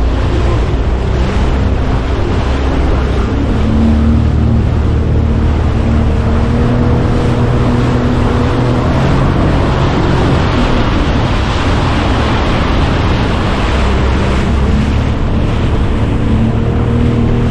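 A motorboat's engine running steadily, mixed with wind buffeting the microphone and water rushing and slapping against the hull in choppy water.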